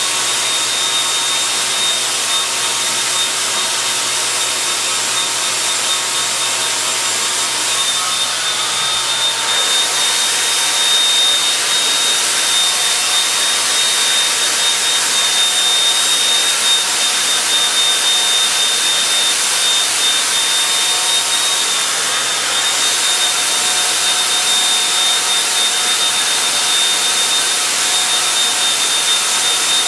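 Gold 'N Hot hair dryer running steadily on medium heat: a loud, even rush of air with a thin high whine from the motor.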